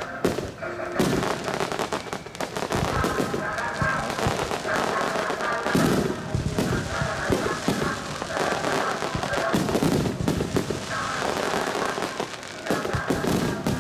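Aerial fireworks shells bursting in quick succession, with deep booms and crackling. Music plays along with the display.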